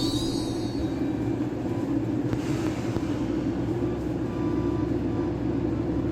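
Akechi Railway diesel railcar running with a steady engine drone and rumble.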